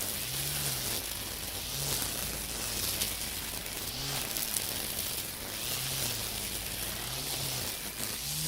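Makita 40V cordless string trimmer spinning its nylon line through dense weeds: a steady high hiss, with a low motor hum that rises and falls about every one and a half seconds as it is swung.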